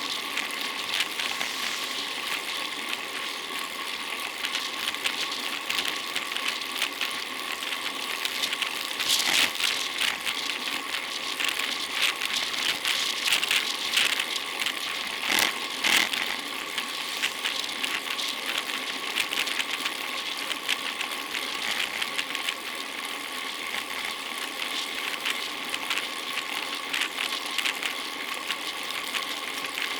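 Bicycle riding noise: a steady, dense rattling and hiss from the moving bike, with a few louder moments partway through.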